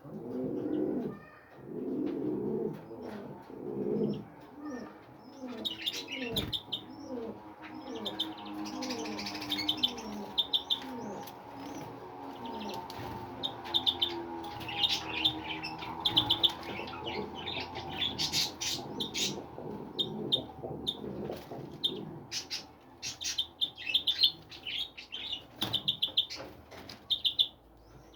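A mixed flock of birds at feeding: low cooing calls, repeated about once a second at first, under many short high chirps, with scattered wing flutters and clicks.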